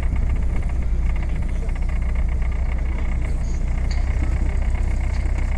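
Boat engine running steadily with a constant low hum, heard from on board.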